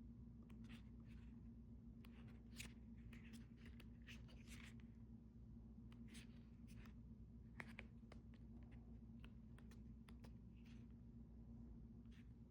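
Faint rustling and scattered light clicks from paper album inserts being handled, over a steady low hum.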